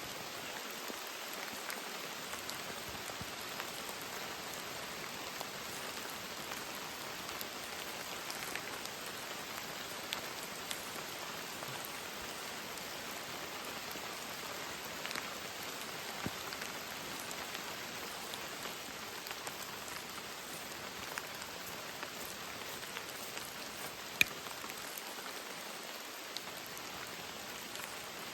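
Steady heavy rain falling, with scattered drops ticking, and one sharp, louder drop or tap near the end.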